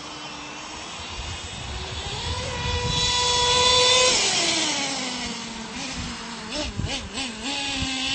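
Radio-controlled monster truck's motor whining as it speeds up. It is loudest about four seconds in, then slides down in pitch, and revs up and down in short blips near the end.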